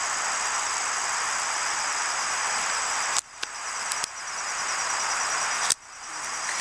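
Crickets chirping steadily in rapid pulses over a constant hiss. Two sharp clicks, about three seconds in and near the end, each cut the level briefly.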